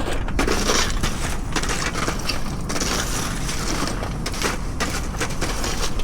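Wind buffeting the microphone with a steady low rumble, with irregular crunching and crackling clicks on top.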